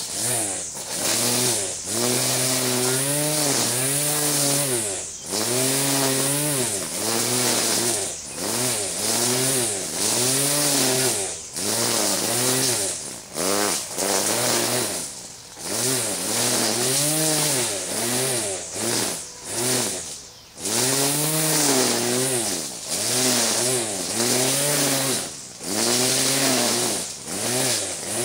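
1976 Opel-Isuzu four-cylinder engine running on its first cold start in years, revved up and down over and over, each surge lasting a second or two with brief dips between. The throttle is being pumped to keep it alive: a dead in-tank electric fuel pump keeps it running out of gas.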